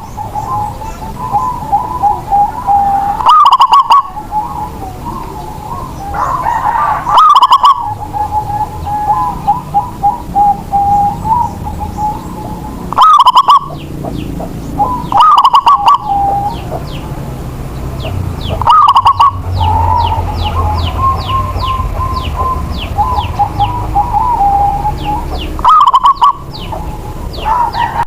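Zebra dove (perkutut) cooing: a loud phrase repeats every few seconds, about seven times, with softer trilling between phrases. Thin, quick high chirps from small birds come through in the middle stretch.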